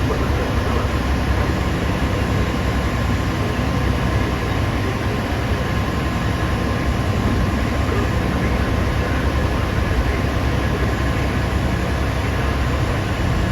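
Diesel engine of a Hitachi 2500 mining excavator running steadily, a dense, even drone with a faint high whine over it.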